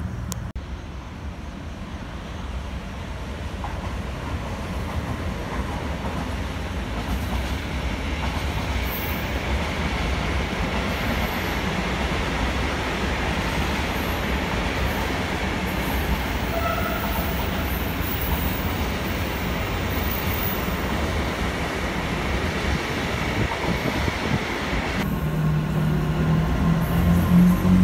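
Freight train wagons rolling past on the rails: a steady rumble of wheels on track that grows louder over the first several seconds. Near the end a louder, low humming sound sets in.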